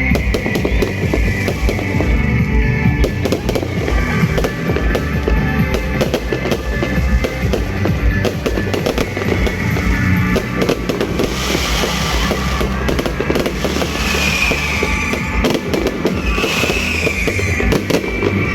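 New Year fireworks going off in a rapid, unbroken run of bangs and crackles, with music playing over them.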